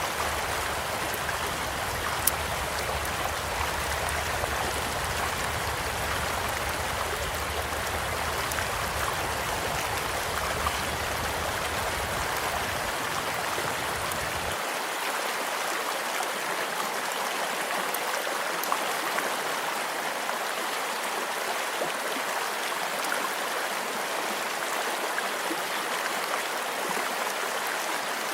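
Small stream flowing steadily, with occasional sharp pops and crackles from a campfire beside it.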